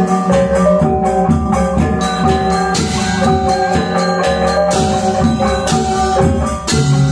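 Balinese gong kebyar gamelan playing: bronze metallophones ringing in rapid patterns over low sustained gong and metallophone tones, with several bright cymbal crashes from the ceng-ceng.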